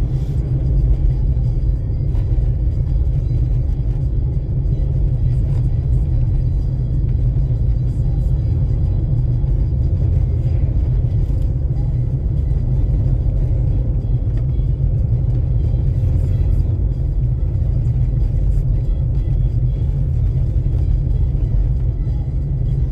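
Steady low rumble of a car's cabin while driving: engine and road noise heard from inside the moving car.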